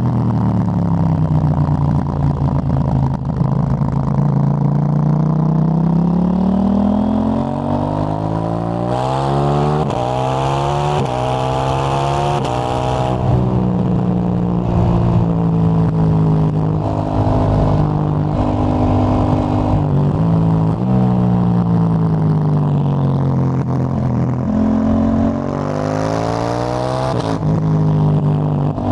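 KTM 890 Duke GP's parallel-twin engine through a Dominator HP8 slip-on exhaust with its dB-killer fitted, ridden on the road. Revs fall off at first, then climb hard twice, about six seconds in and again near the end, each time dropping off sharply, with stretches of steadier cruising between.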